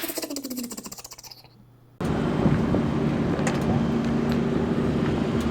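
A falling, rapidly pulsing intro sound effect fades out over the first two seconds. Then, after a sudden cut, a hot rod's engine idles with a steady low rumble and hum.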